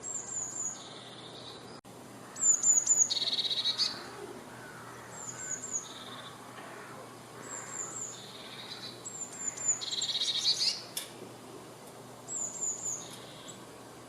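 A tit singing in repeated phrases. Each phrase is three or four high, thin, falling notes followed by a lower buzzy trill, and the phrase comes about six times. A sharp click is heard twice.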